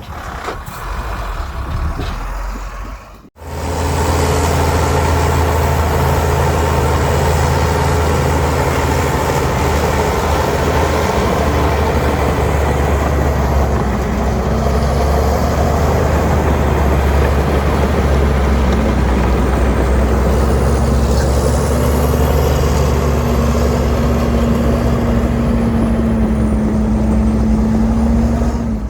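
Heavy diesel earthmoving machinery running steadily under load: a low engine drone that picks up after a brief cut about three seconds in, with a humming tone that grows stronger in the second half.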